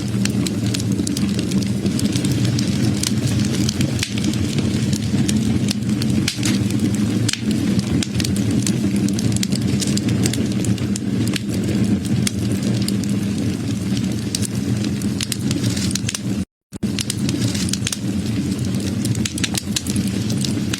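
Wood fire crackling, with many sharp pops and snaps over a steady low rumble of burning. The sound cuts out completely for a split second about sixteen seconds in.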